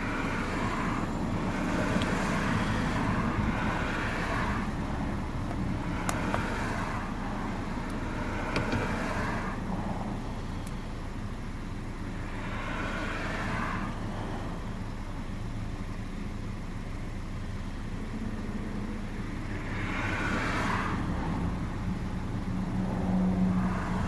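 A car engine idling with a steady low hum, with several swells of other vehicles passing and a few faint clicks.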